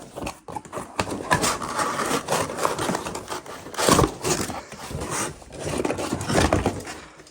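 Irregular scraping, rubbing and knocking of parts and tools being handled during a blower motor and blower wheel swap, with a louder knock about four seconds in.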